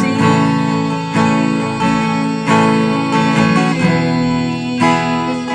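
Acoustic guitar, capoed at the second fret, strumming open chords: several strummed strokes, each chord ringing on into the next.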